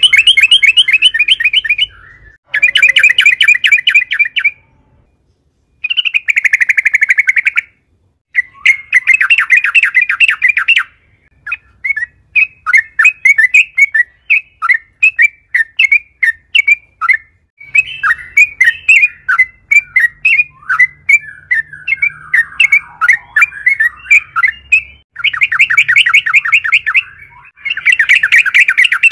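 Yellow-vented bulbul (trucukan) in loud chattering song. Fast rattling trills of a second or two each are broken by short pauses, with a long run of quick separate chirps in the middle.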